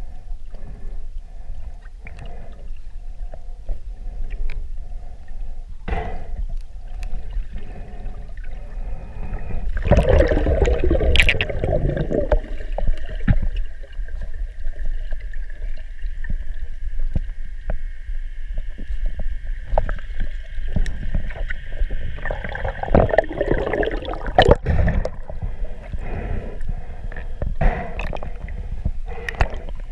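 Water gurgling and sloshing, muffled, with scattered knocks. A steady high whine comes in about a third of the way through and holds for roughly fourteen seconds.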